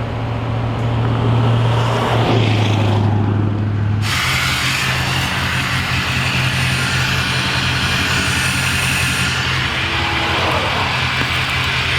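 Vehicle on the road: a steady low engine drone that drops in pitch a couple of seconds in. About four seconds in it gives way abruptly to louder road and traffic noise over a steady low engine hum.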